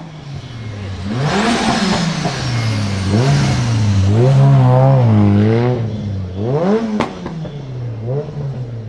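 Nissan S14's turbocharged SR20DET four-cylinder engine revving hard while drifting, its pitch climbing and dropping several times and wavering while held high. A loud high hiss rides over it early on, and a single sharp crack sounds about seven seconds in.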